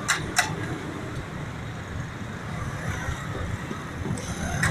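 Steady rumble of passing road traffic, with two sharp knocks just at the start.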